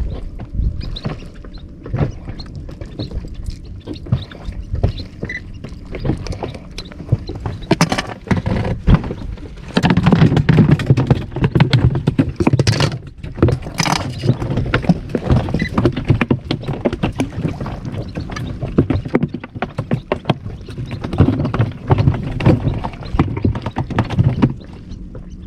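Water slapping and splashing against the hull of a small inflatable boat at sea, with many irregular clicks and knocks, loudest about ten seconds in and again near the middle.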